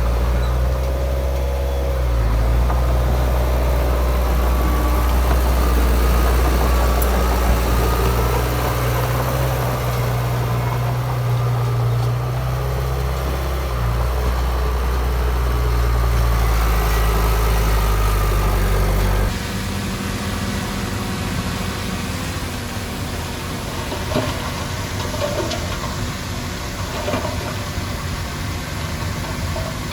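Diesel engine of heavy earthmoving machinery running steadily. About 19 seconds in, the sound cuts abruptly to a quieter, thinner engine sound with scattered clanks.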